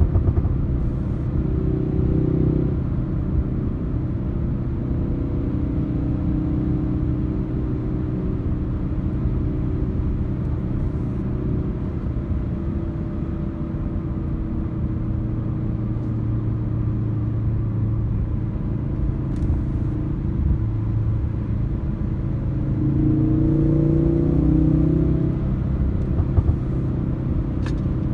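Ford Focus RS's turbocharged four-cylinder engine and tyre noise heard from inside the cabin while driving, the engine note shifting with the throttle. About three-quarters of the way through it gets louder and rises in pitch as the car accelerates.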